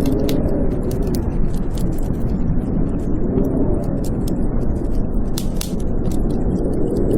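Blizzard wind howling in slow rising and falling swells over a deep, steady rumble, with the quick crackles and pops of a wood fire burning throughout.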